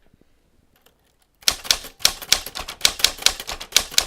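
A rapid run of sharp clicks, about four a second, starting about a second and a half in after a few faint ticks.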